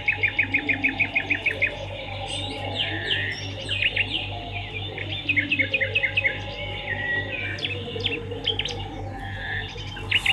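Swiftlets chirping in quick rapid-fire runs of sharp, high twitters, the longest run of about ten chirps at the start and another about five seconds in, over a steady low hum.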